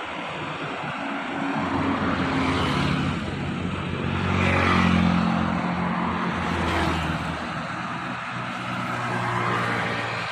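Car driving in heavy rain: a low engine hum under a steady hiss of rain and wet road noise. The sound swells about five seconds in.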